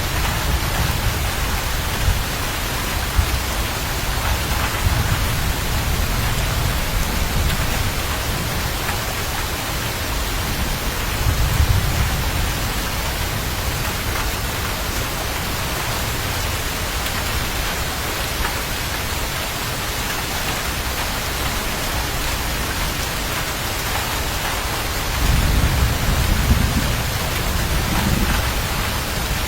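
Steady rain falling, with low rumbles of thunder about a third of the way in and again near the end.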